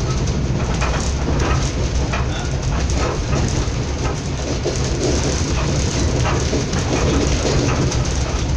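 Steady rumble of a moving train heard from inside the passenger carriage, wheels on track with faint scattered clicks over a heavy low drone.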